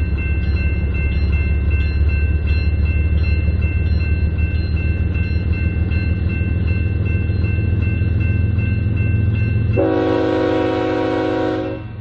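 BNSF freight train rumbling past a grade crossing while the crossing bell rings with a steady, evenly repeating tone. About ten seconds in, a diesel locomotive's air horn sounds a chord for about two seconds and then cuts off.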